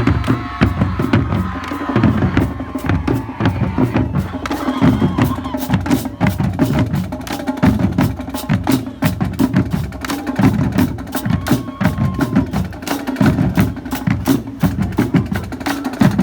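Marching drumline of snare drums, multi-tenor quads and bass drums playing a fast, dense cadence. The drumming stops abruptly at the end.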